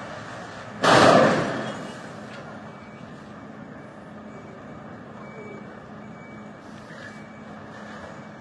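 Vehicle engine running with a steady low hum. About a second in a loud rush of noise bursts out and fades away over roughly a second. Faint short high beeps sound now and then.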